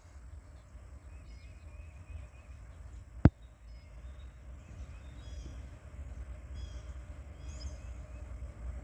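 Low, steady rumble of an approaching freight train's diesel locomotives, growing a little louder near the end, with birds chirping faintly. A single sharp click about three seconds in.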